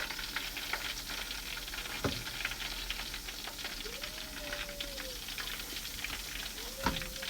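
Breaded chicken pieces frying in hot oil in a pan: a steady sizzle full of small crackling pops. Two knocks, about two seconds in and near the end, and a faint wavering tone twice in the second half.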